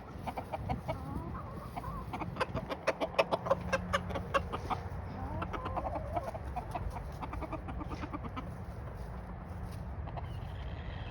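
Backyard chickens clucking, with a dense run of quick short clucks in the middle and a few drawn-out, wavering calls after it.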